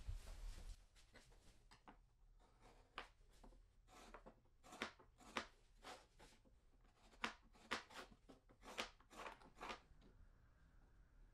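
Faint, irregular sharp clicks and taps, more than a dozen spread over several seconds, after a brief rasping noise at the very start.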